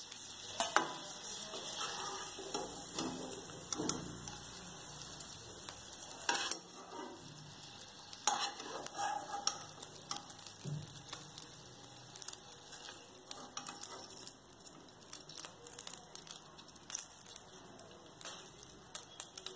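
Ghee sizzling in a nonstick pan as fried paneer cubes are scooped out with a spatula, with scrapes and light clinks of the spatula against the pan. The sizzle drops about six seconds in, leaving softer crackles and scrapes.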